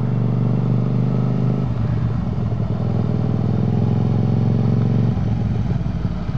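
Hyosung GT250R's 250 cc V-twin engine running steadily as a learner rides it, its note changing about two seconds in and again near the end.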